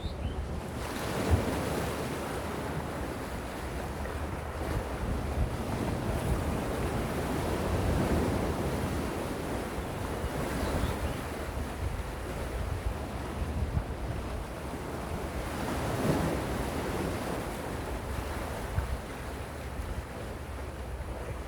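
Calm sea waves washing onto the shore, the wash swelling and fading about every seven or eight seconds, with wind rumbling on the microphone.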